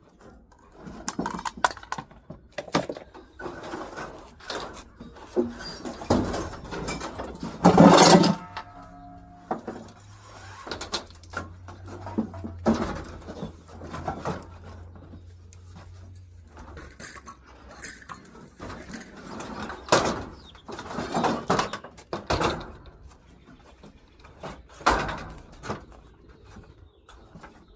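Irregular knocks and clatter of objects being handled, with one loud clank about eight seconds in that rings briefly.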